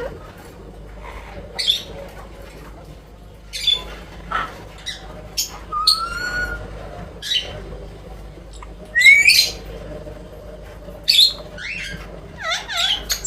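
Indian ringneck parrot calling in short, high squawks, spaced a second or two apart, with a short whistled note about six seconds in, a loud rising squawk about nine seconds in and quick wavering chirps near the end.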